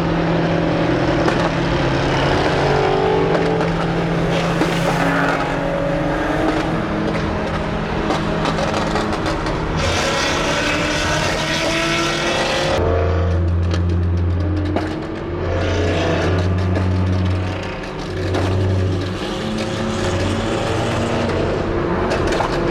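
Car engines running and revving, with a louder, harsher surge of engine and tyre noise about ten seconds in.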